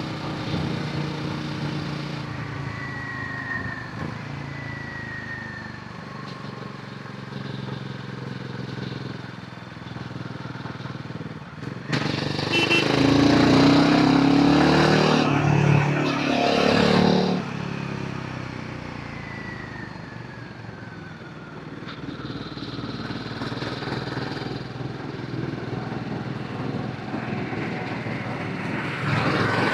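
Royal Enfield Himalayan 450's single-cylinder engine and exhaust running on the move, with wind rush. About twelve seconds in, a much louder rush lasts about five seconds before it settles back to the steady engine note.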